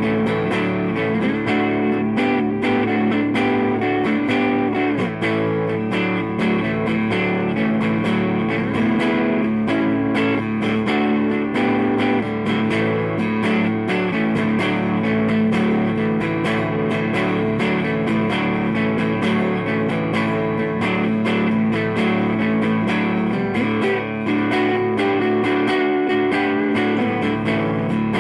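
Electric guitar with Lindy Fralin Broadcaster pickups, neck and bridge pickups mixed, played through a Fender Blues Deville 212 amplifier: a continuous run of picked notes and chords.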